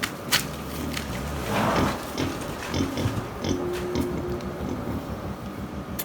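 A potbelly pig sow and her newborn piglets grunting while the piglets nurse, with short low grunts repeating and a few sharp clicks.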